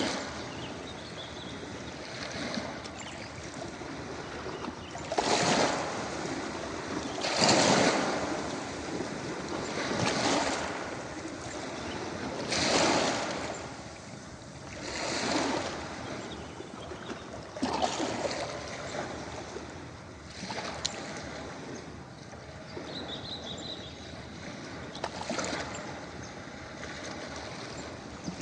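Ocean waves washing onto a beach: a surge of surf about every two and a half seconds over a steady hiss of water, the surges fading after about twenty seconds.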